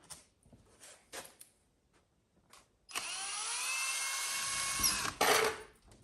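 Power drill driving a screw, running steadily for about two seconds starting about three seconds in, after a few light clicks and knocks; a short louder burst follows near the end.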